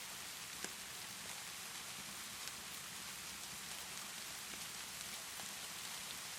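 Steady rainfall, an even hiss of rain on a surface. Two faint sharp clicks stand out, one just under a second in and one about two and a half seconds in.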